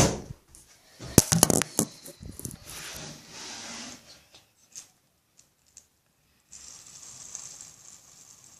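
Fidget spinner being handled: a few sharp clicks and a short clatter of small hard parts about a second in, then a rustle that dies away, with a faint hiss near the end.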